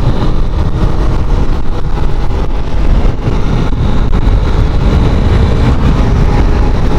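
Motorcycle on the move: the engine runs steadily under a heavy, rumbling rush of riding wind on the microphone.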